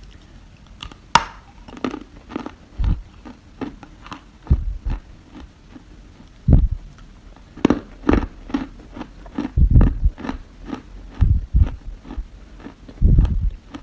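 Close-up crunching of dry soil being bitten and chewed: a sharp snap about a second in as a piece is bitten off, then irregular gritty crackles with heavier crunches every second or so.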